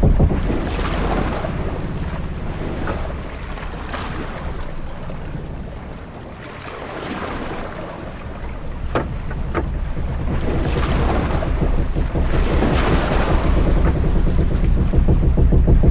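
Ship-at-sea ambience: waves washing against a ship and wind over a deep low rumble, swelling and easing, quieter about halfway through and building again toward the end. Two short knocks a little past the middle.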